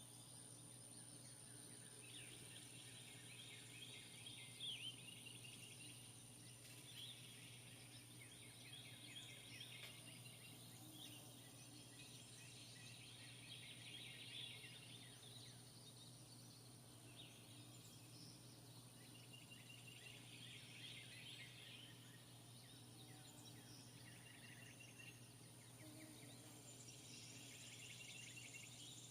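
Faint outdoor ambience: small birds trilling in short bouts of rapid high chirps every few seconds, over a steady low hum.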